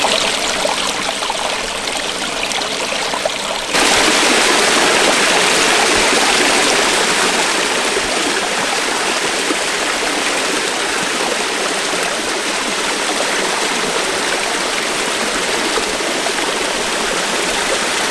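Waterfall pouring into a pool, a steady rush of falling water that steps up louder about four seconds in.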